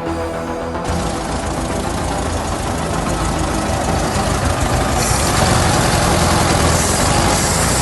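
Volkswagen Beetle engine running steadily. The sound gets louder about a second in and again around five seconds.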